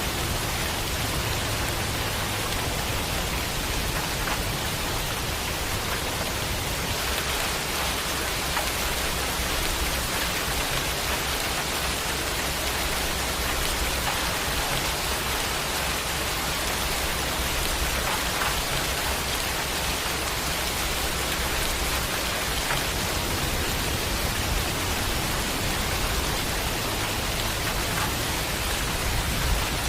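Steady, even rain falling on a surface, with a sharper drop ticking now and then.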